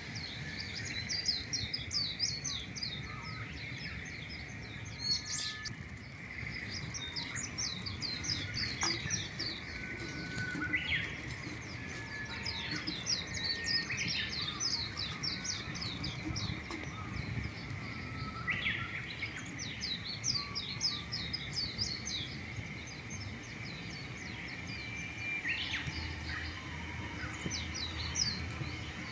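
Songbird singing: phrases of rapid, falling high notes, repeated every few seconds, over a steady faint high hum.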